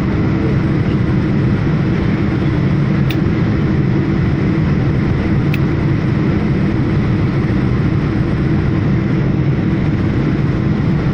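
Steady jet engine and airflow noise inside an airliner cabin during the climb after takeoff, with two faint clicks about three and five and a half seconds in.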